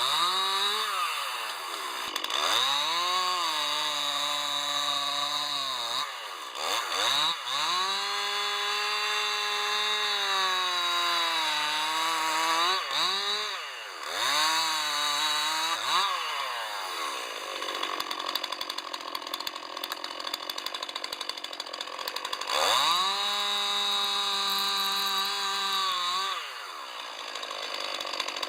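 Chainsaw revved to full throttle and cutting wood in several passes, its pitch sagging under load, dropping back to idle between cuts, with a few short blips of the throttle and a long idle before one last cut near the end.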